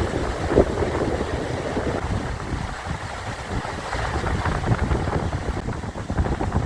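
River water rushing over rapids, a steady noisy rush with wind buffeting the microphone in low rumbling gusts.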